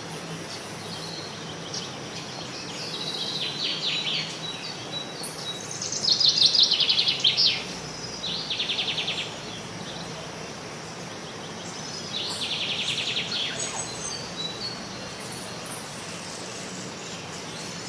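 Birds calling: several bursts of fast, buzzy, rattling trills over a steady background hiss, the loudest about six seconds in.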